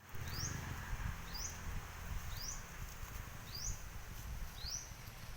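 A bird repeating a short rising chirp five times, about once a second, over low rumbling background noise.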